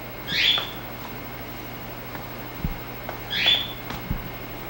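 A bird squawks twice, about three seconds apart: short, harsh calls that fall in pitch. Two soft low thumps come between them.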